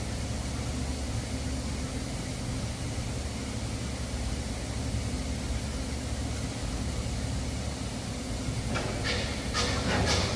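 Welding arc on a stainless steel (308) root pass, a steady hiss over a low hum, breaking into sharper crackling bursts near the end.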